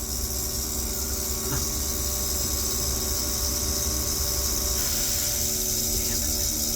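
An overhauled valve shuddering: a steady low hum with a few steady tones over a constant hiss.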